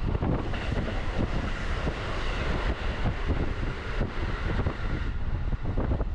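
Electric commuter train running at speed, heard from inside the car: a steady rumble with wheel-on-rail clatter. A train passing close alongside adds a rushing hiss that drops away about five seconds in.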